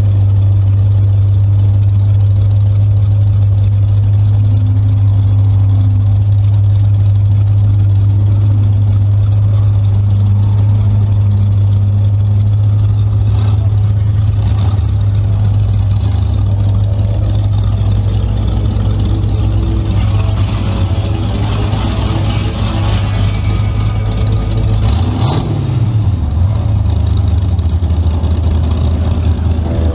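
Hot-rodded 1929 Ford Model A's engine idling steadily with a low pitch, heard from inside the cab as the car creeps forward. Near the end the driver gives the throttle a quick blip and the revs rise and fall.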